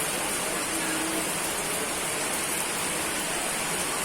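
Steady heavy rain falling, an even hiss of drops on surfaces with no thunder in this stretch.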